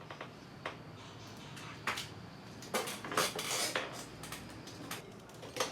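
Scattered clicks and clinks of small hard objects being handled, with a brief hiss about three seconds in.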